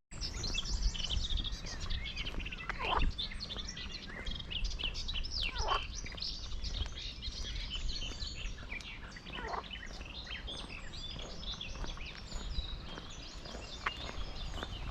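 Songbirds chirping and singing, many short high calls crowding the first half and thinning out later, with three longer falling calls among them. A low steady rumble runs beneath.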